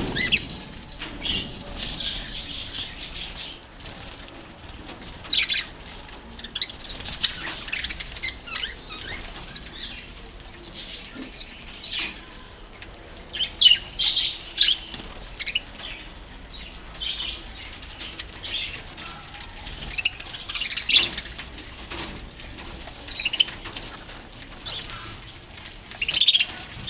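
A group of budgerigars chirping and chattering: many short, high calls overlapping one another, with a few louder bursts.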